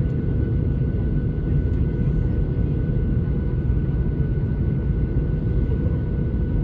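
Steady low cabin rumble of a Boeing 737-800, from its CFM56-7B engines and airflow, with a faint steady whine above it.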